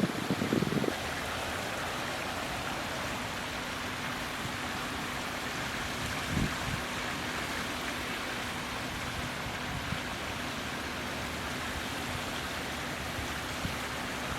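Steady rushing noise of flowing water, with low buffeting on the microphone in the first second.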